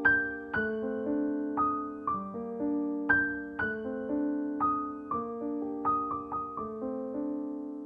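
Slow, gentle background piano music: single notes and chords struck about every half second, each ringing and fading before the next.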